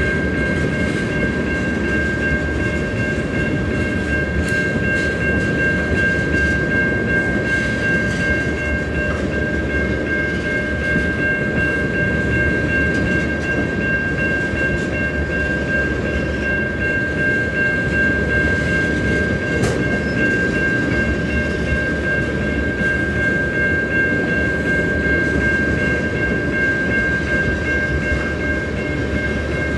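Freight train of tank cars rolling steadily past: a continuous rumble of wheels on rail, with a steady high-pitched tone held over it throughout.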